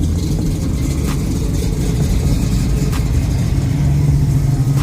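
A car engine running steadily with a low exhaust rumble.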